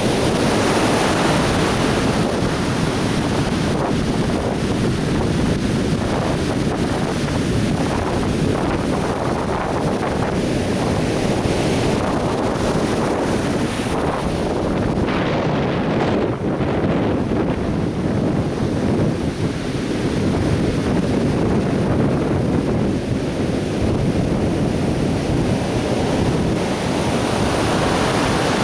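Atlantic Ocean surf breaking and washing on a beach, a continuous rushing that swells and eases, with wind buffeting the microphone.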